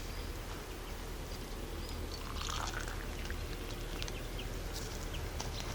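Quiet outdoor ambience: a steady low hum with scattered faint ticks and a few brief high chirps.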